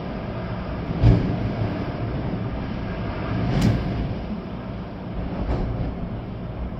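Storm wind gusting through swaying trees with rain, a steady noisy rumble with wind buffeting the microphone. A sharp thump comes about a second in, and a brief hissing rush of a gust about three and a half seconds in.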